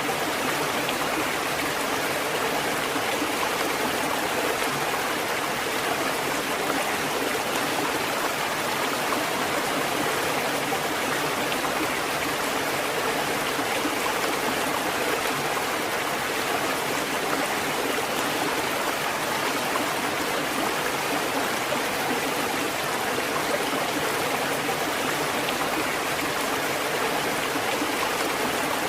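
Water falling and splashing steadily in a fountain, an even, unbroken rush with no knocks or pauses.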